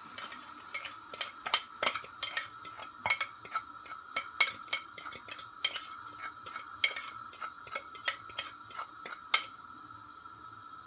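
A metal fork stirring beaten egg, its tines clicking against the dish about three times a second in an uneven rhythm.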